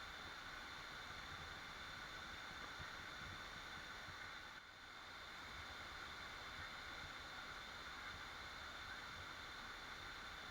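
Waterfall: steady rushing, splashing water, with a brief dip in level about halfway through.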